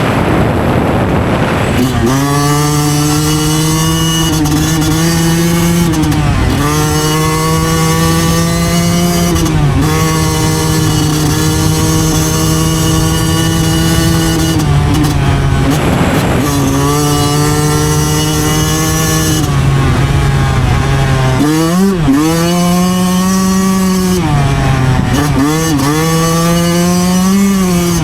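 Yamaha YZ125 two-stroke single-cylinder engine running hard at steady high revs under load. Its pitch dips and recovers about five times as the throttle is eased off and rolled back on. There is a rush of noise in the first two seconds.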